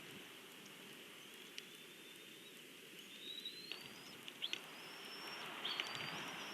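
A bird's thin, high whistled notes, each rising in pitch and then holding, four in a row from about a second and a half in, over a steady hiss with a few light ticks.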